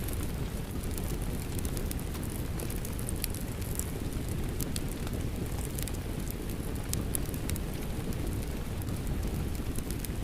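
Steady rain mixed with a crackling wood fire: an even low rumble and hiss, with scattered sharp pops and snaps from the fire throughout.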